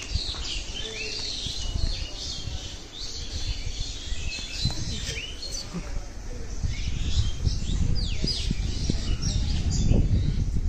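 Several small birds chirping and calling in quick, overlapping short notes, over a low rumble that grows louder near the end.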